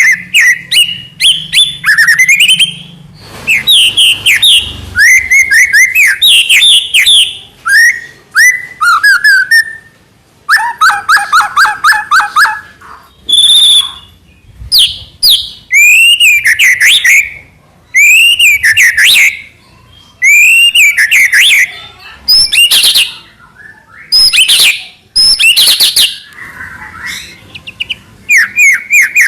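White-rumped shama singing: a long run of varied loud phrases of rising and falling whistles, fast rattling trills and quickly repeated notes, broken by short pauses.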